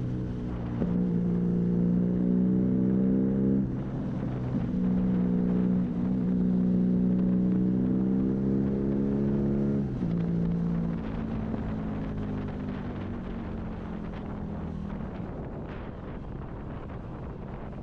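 BMW R nineT's boxer twin through an Arrow high-mounted exhaust, pulling under throttle: the note climbs, dips at a gear change about four seconds in, and climbs again. About ten seconds in it drops off the throttle, and the engine note fades into wind noise.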